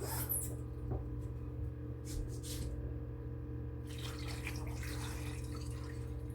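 Water from a kitchen tap splashing in short spurts, then running more steadily from about four seconds in, over a steady low hum.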